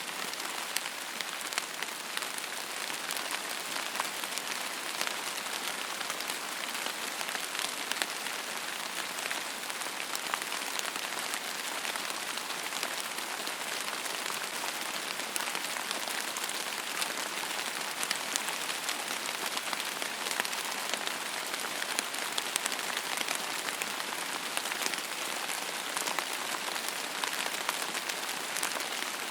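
Steady rain falling on a surface, an even hiss with many fine scattered drop ticks and no thunder.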